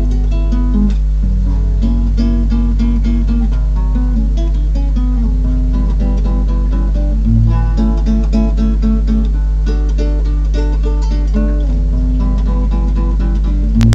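Solo acoustic guitar playing a fingerpicked piece: quick runs of repeated plucked notes over held bass notes.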